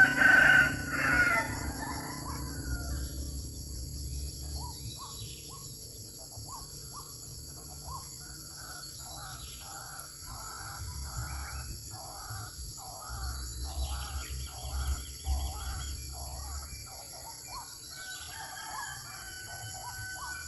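A bird calling: a loud call at the start, then a long series of short repeated notes, about two a second, over a steady high-pitched shrill.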